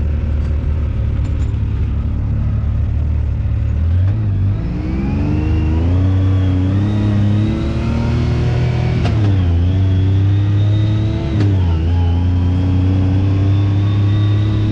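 Side-by-side UTV engine idling, then pulling away about four seconds in, its pitch climbing and dropping twice as it shifts up through the gears.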